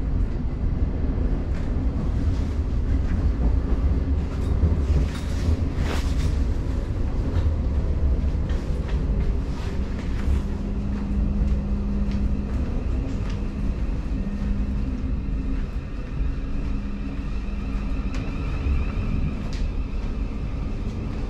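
Class 717 electric train running, heard from inside the carriage: a steady low rumble with scattered clicks and knocks from the wheels and car body. A low hum comes and goes in the middle.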